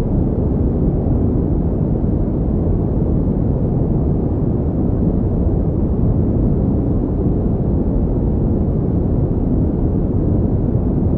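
Steady pink noise: a continuous, unchanging hiss weighted toward the low end, with no breaks or events.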